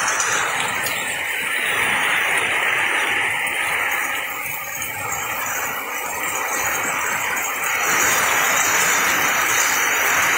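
Torrential wind-driven rain pouring down in a steady dense hiss. It eases slightly midway and swells louder again near the end.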